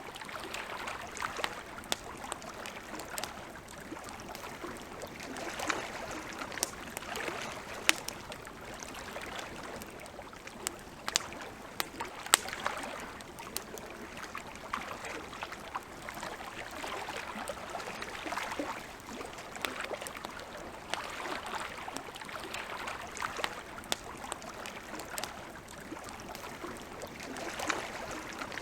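Wood campfire crackling, with frequent small clicks and an occasional louder pop, over water lapping at the shore in slow, repeated swells.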